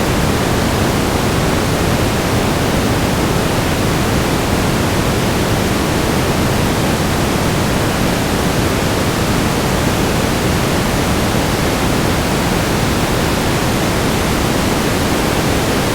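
Steady static noise: an even, loud hiss that does not change, weighted toward the lower pitches like pink noise.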